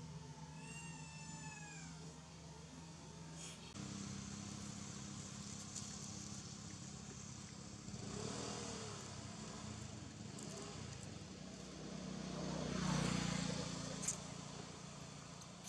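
A motor vehicle passes, its noise swelling and fading about twelve to fourteen seconds in, over a steady low drone. A brief high call that falls in pitch sounds near the start.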